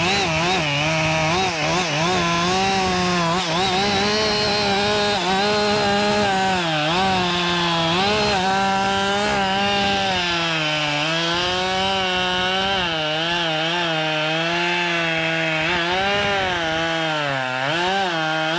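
Two-stroke chainsaw at full throttle crosscutting an inch-and-a-half slab off the end of a hemlock log. Its pitch dips again and again as the chain loads up in the wood, then recovers.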